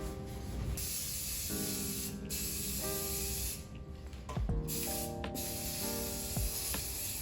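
Primer being sprayed onto car suspension parts: a steady hiss that starts about a second in and comes in several long passes with brief breaks between them.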